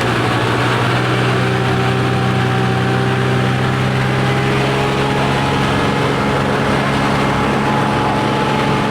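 Tractor engine running steadily under load while pulling, a constant low engine drone with a faint, slowly rising whine above it.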